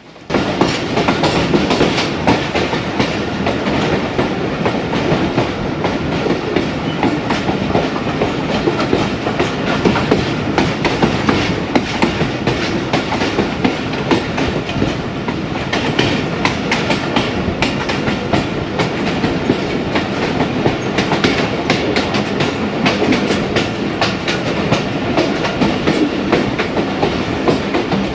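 Passenger train running along the line, a steady rumble thick with the clatter and rattle of wheels over the rails. It is on a stretch of worn track under a 40–45 km/h speed restriction.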